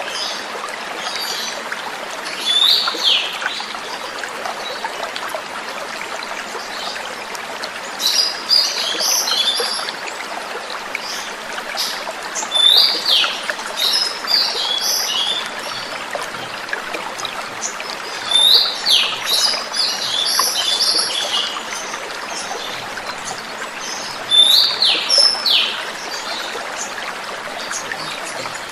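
Oriental magpie-robin (kacer) singing short bursts of chirps and quick downward whistles, a burst every five or six seconds, over a steady running-water sound of a flowing stream.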